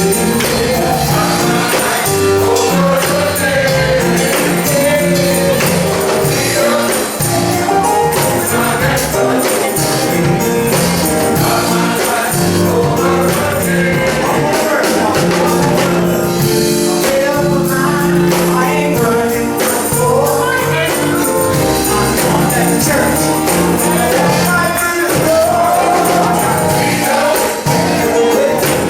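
Gospel song sung by a male chorus, with a tambourine shaking along to the beat.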